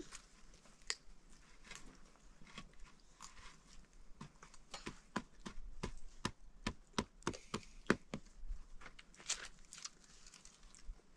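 A run of sharp clicks and crackles at an uneven pace, coming thickest in the middle.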